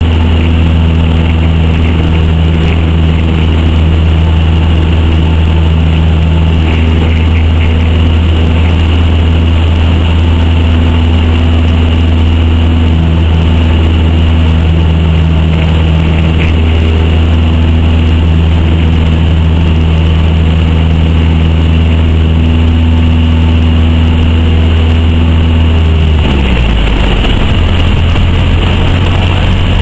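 Cessna 152's four-cylinder Lycoming engine running steadily at full power in the climb after take-off. Near the end the throttle is pulled back and the engine note drops suddenly to a lower idle: a practice engine failure after take-off.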